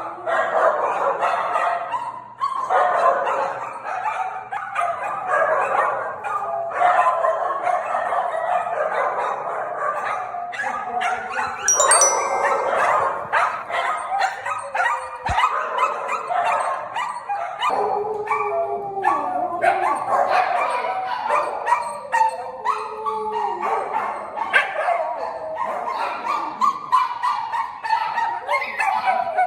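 Dogs barking, yipping and whining without a break.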